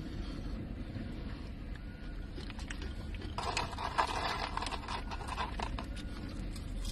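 Close-up eating sounds: chewing with small wet clicks, growing louder and busier from about three and a half to six seconds in, over a low steady rumble.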